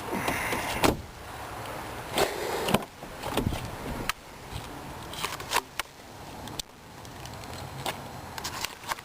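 Irregular clicks, knocks and rustles of handling and movement inside a car's cabin, over a steady low hum.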